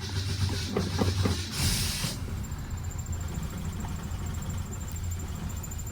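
1966 Ford Mustang engine running just after a cold start following seven months of sitting, with a few sharp irregular knocks in the first second and a half and a short hiss about two seconds in, then settling into a steady idle.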